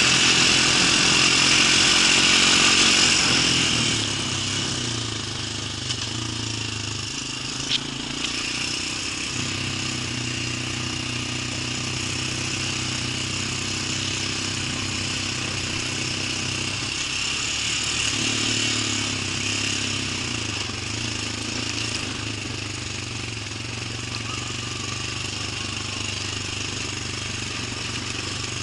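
An engine running steadily, louder for the first few seconds and then settling lower, with a single sharp click about eight seconds in.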